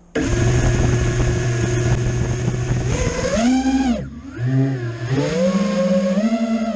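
A motor-like drone that starts abruptly, runs steadily and then rises and falls in pitch several times, as if the throttle is being opened and closed.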